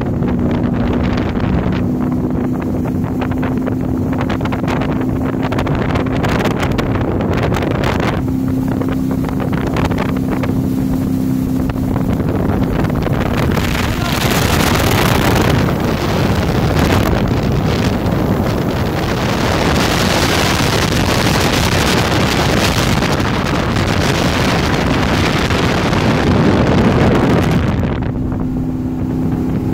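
Four Winns Vista 238 motorboat under way, its GM 5-litre fuel-injected V8 running with a steady engine hum. From about halfway through, loud wind and water rush largely drowns the engine note, which comes back clearly just before the end.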